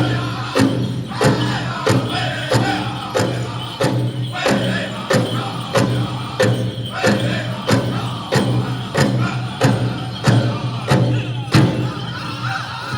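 Powwow drum group playing a chicken dance song: a large drum struck in unison in a steady beat of about three strokes every two seconds, with the singers' voices over it.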